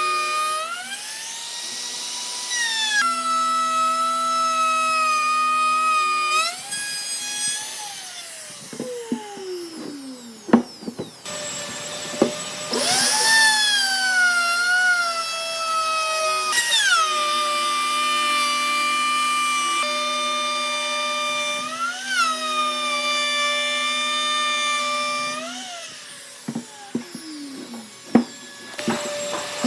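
High-speed electric power tool motor whining. Its pitch drops and recovers as it is pressed into the work. It winds down about eight seconds in, starts up again with a rising whine about twelve seconds in, winds down again near the end, and a few sharp knocks fall in the quieter gaps.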